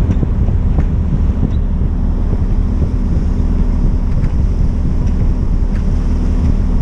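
Wind buffeting the GoPro microphone on a moving sailboat, over a steady low rumble with a few faint ticks.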